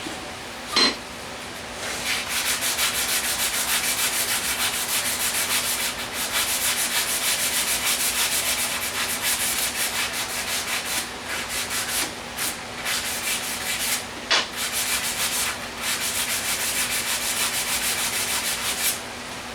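Wood being sanded with sandpaper in quick, rhythmic strokes, with a few short pauses, after a single sharp knock near the start.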